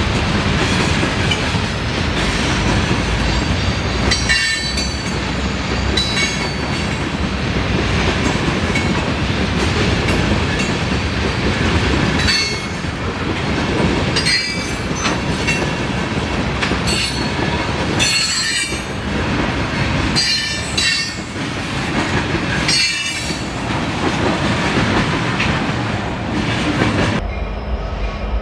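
A train rolling past on steel rails in a steady heavy rumble, with repeated short high-pitched wheel squeals over its length.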